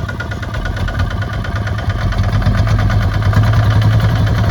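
Kubota ZT155 single-cylinder diesel engine of a tractor running steadily with a fast, even knocking beat, getting a little louder about two seconds in.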